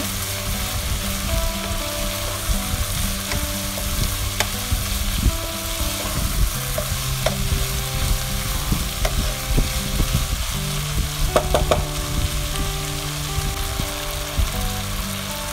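Julienned vegetables (carrot, capsicum, cabbage, chillies and spring onion greens) stir-frying in hot oil in a pan: a steady sizzle, with the spatula clicking and scraping against the pan now and then.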